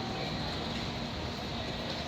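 Train running: a steady rumble and hiss.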